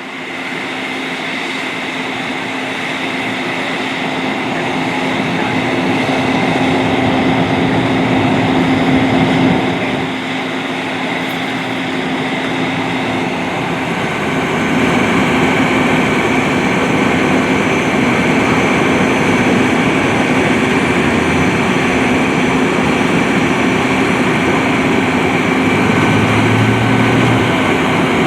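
Steady, loud vehicle engine noise with a constant hum, fading in at the start and dipping briefly about a third of the way through.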